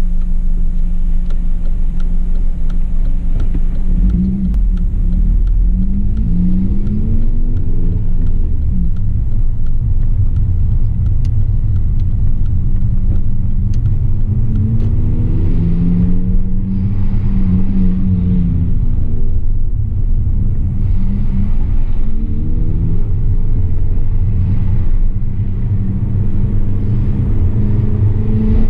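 Honda Civic Type R FN2's 2.0-litre four-cylinder i-VTEC engine and 3-inch TDi North exhaust, heard from inside the cabin. It runs with the HKS induction kit removed. It pulls up through the revs four times, the pitch rising and then falling back, between spells of steady low rumbling cruise.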